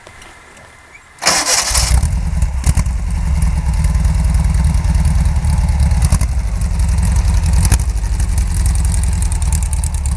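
A high-performance 1830 cc air-cooled VW flat-four with dual Weber carburettors cranks and fires a little over a second in, then runs steadily and loudly.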